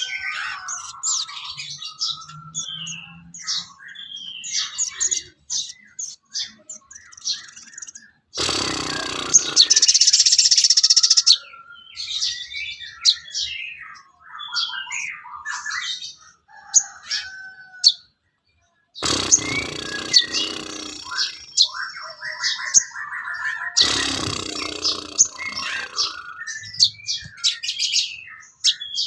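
Recorded songbird song: rapid, varied chirps, trills and calls, broken by three louder, harsh, noisy stretches of a few seconds each and a brief silent gap just after halfway.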